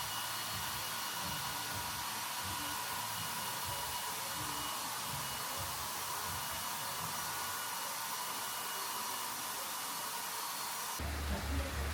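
Electric blower running steadily: an even, high-pitched hiss of rushing air with a faint motor whine, cutting off abruptly near the end.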